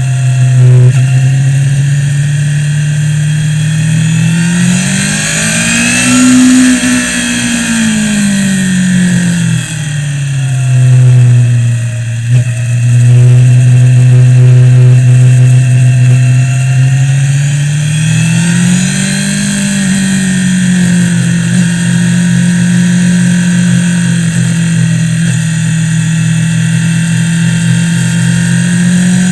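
Suzuki GSX-R sportbike's inline-four engine heard from an onboard camera on a track lap, with steady wind rush. The engine note rises about five seconds in, drops back a few seconds later, then climbs again near the twentieth second and holds as the bike accelerates and slows through the bends.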